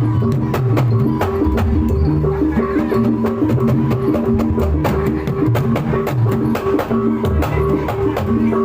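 Javanese gamelan music playing: a repeating pattern of struck metal notes over busy, rapid hand-drum strokes.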